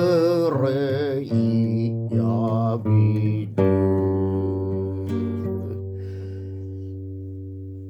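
Acoustic guitar music with a wavering melody line over it; about three and a half seconds in a chord is strummed and left to ring, slowly fading away.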